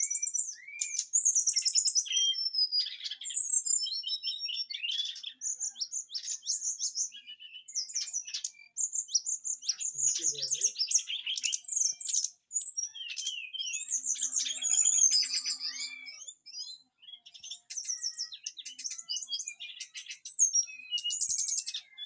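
A trained songbird (SRDC) singing a long, varied song of rapid high-pitched chirps, trills and short sweeping phrases, with only brief pauses. The song is packed with coarse learned 'tembakan' fill-in phrases.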